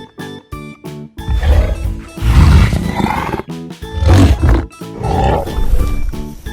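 Cartoon gorilla roaring about four times over playful background music.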